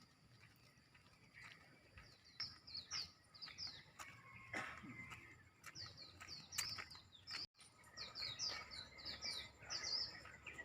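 Small birds chirping: quick runs of short, high chirps, each sliding down in pitch, repeated throughout.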